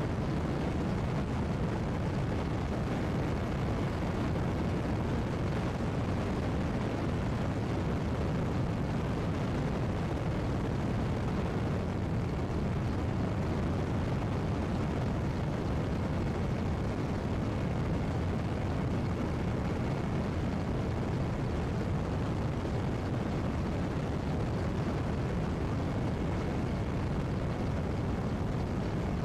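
Mi-8 helicopter's twin turboshaft engines and rotor running steadily: a loud, even noise heavy in the low end, with a faint high steady whine over it.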